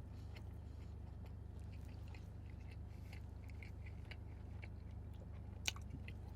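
A person chewing food close to the microphone: faint, scattered wet mouth clicks, with one sharper click near the end, over a steady low hum.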